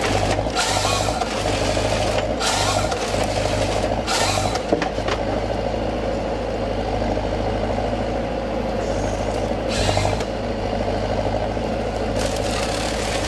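Forestry harvester running: a steady heavy diesel drone, broken by about five short bursts of hissing, rushing noise each lasting half a second to a second.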